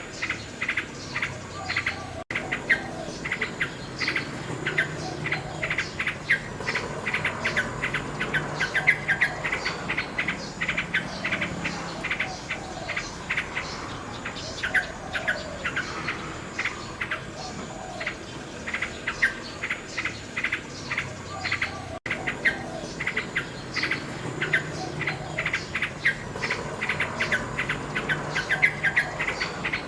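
Common nightingale singing: fast runs of short repeated notes and trills that follow one another without pause. A steady, high-pitched insect chirring runs behind the song.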